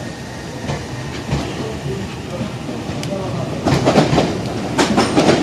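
Electric commuter train running along the platform, growing louder, with a quick series of wheel clacks over the rail joints setting in about two-thirds of the way through.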